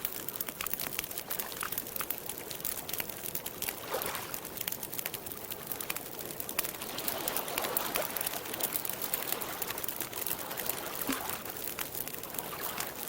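Campfire crackling steadily, with many small sharp pops and snaps over a soft hiss.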